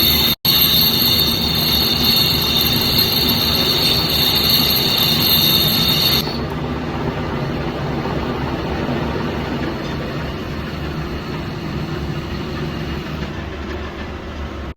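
Metal lathe turning a hydraulic piston: steady machine noise with a high squealing whine from the cutting tool, which stops abruptly about six seconds in, leaving the machine running more quietly.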